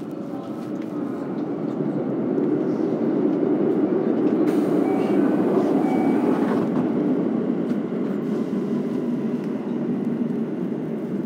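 Electric commuter train running, heard from inside the passenger car: a dense rumble of wheels on rail that grows louder over the first few seconds and then holds steady, with a faint whine partway through.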